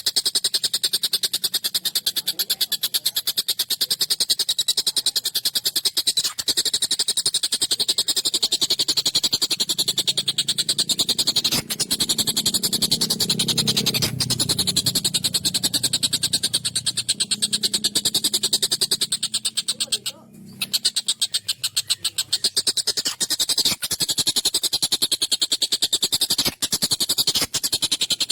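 Collared kingfisher (tengkek buto) calling a continuous harsh, rapid chatter of short notes. There is a brief break about twenty seconds in.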